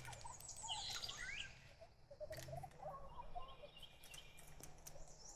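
Faint bird calls: a few short sweeping chirps in the first second and a half, then softer warbling notes in the middle, over a low steady background.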